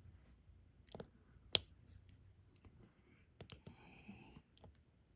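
Diamond-painting drill pen tapping small resin drills onto the sticky canvas: a few faint, sharp, separate clicks, the loudest about a second and a half in.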